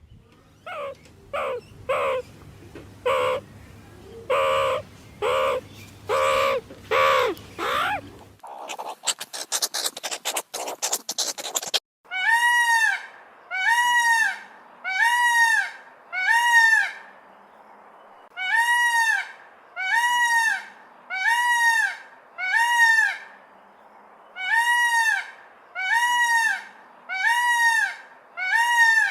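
Animal calls, probably a bird's. First comes a run of short pitched calls, then a few seconds of rapid rattling clicks. From a little under halfway in, a loud arched honking call repeats about once a second in short groups.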